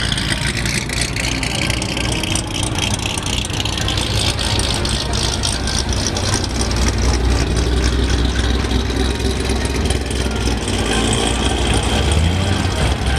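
Car engines idling and running, a steady low rumble.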